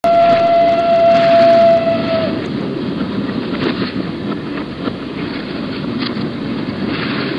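Narrow-gauge train sounding one steady whistle for about two seconds, which sags slightly in pitch as it stops, over the running rumble of the train with scattered clicks of wheels on the rails.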